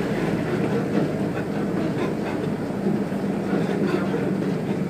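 A railbus's diesel engine running steadily, heard from inside the cab as a continuous low hum.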